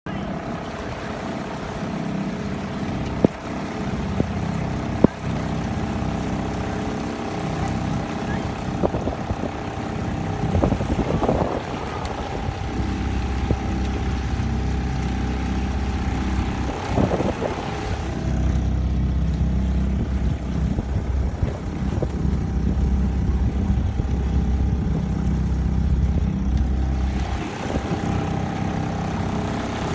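Motorboat engine running steadily, with a low hum and a steady higher tone. Two sharp knocks come in the first few seconds.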